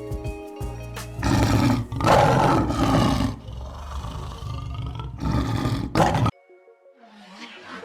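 Big cat roaring twice, about a second in and again about two seconds in, each roar lasting around a second, over background music that cuts off suddenly near the end.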